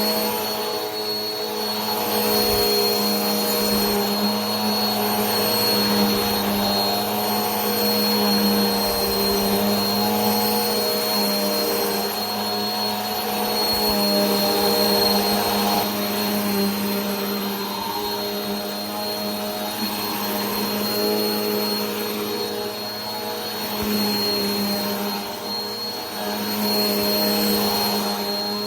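Vacuum cleaner running steadily: a continuous motor drone and airflow hiss with a high thin whine, swelling and easing slightly every few seconds.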